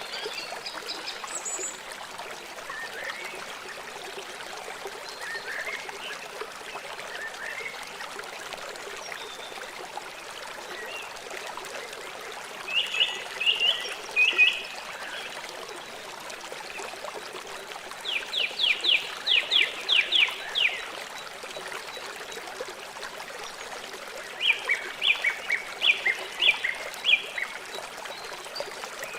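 River water flowing steadily, with three bouts of rapid, repeated high-pitched calls from wildlife over it, the middle one a quick series of about eight notes.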